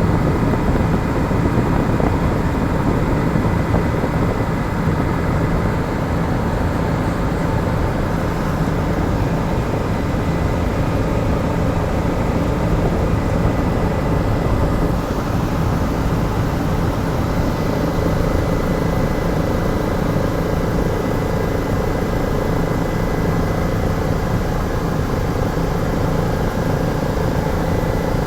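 Helicopter in flight, its rotor and engine running with a steady, dense rumble and a faint constant whine above it.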